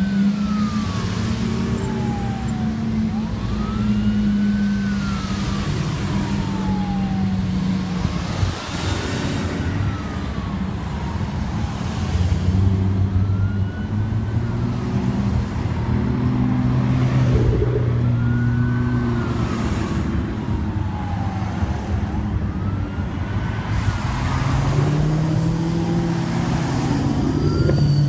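Emergency-vehicle siren in a slow wail, each cycle a quick rise and a longer fall, repeating about every four and a half seconds, over the steady running of car engines in traffic.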